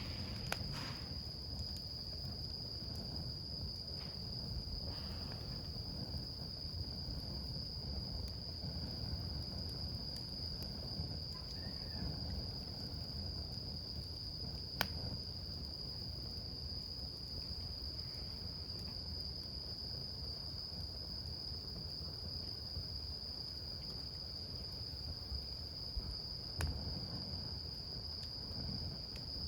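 Wood campfire burning with a low rumble and a few sharp crackles, the loudest about 15 s in. A steady high-pitched insect trill, like crickets, sounds behind it.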